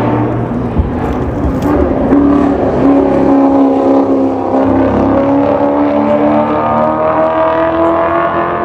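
Historic racing car engines running at high revs on track, one climbing steadily in pitch through the second half as it accelerates.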